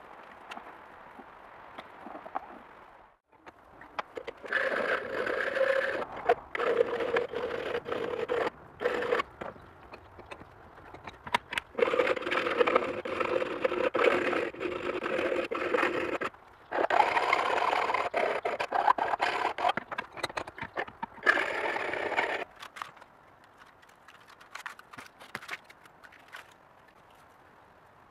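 A power tool running in four bursts of a few seconds each, a steady whine with scraping against metal, in keeping with stripping rust off an old hammer.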